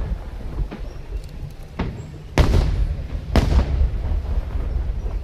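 Aerial fireworks bursting over a steady low rumble of shell explosions, with sharp cracking booms; the two loudest come about a second apart in the middle.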